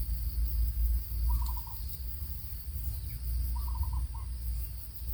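A bird giving a short hooting phrase of four or five quick notes, twice, about two and a half seconds apart, over a steady trill of insects and a low rumble.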